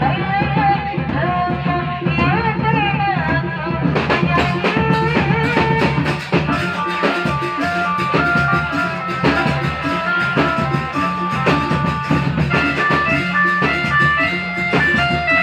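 Live band music: a singer's voice over drums and guitar for about the first four seconds, then an instrumental melody of held, stepping notes over a steady drum beat.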